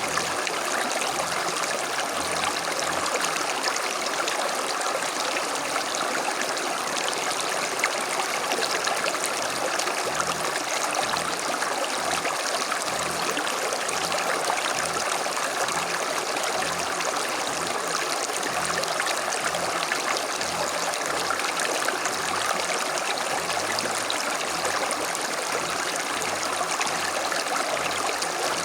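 A small creek running over stones, a steady rushing and trickling of flowing water with no change in level.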